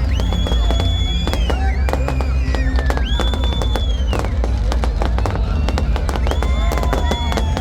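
Fireworks going off: many rapid bangs and crackles, with high whistles that hold a pitch and then slide down.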